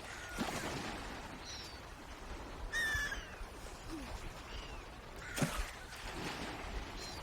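Several short, high bird calls at intervals, the loudest and longest about three seconds in, with a couple of brief rustling noises over a steady background hiss.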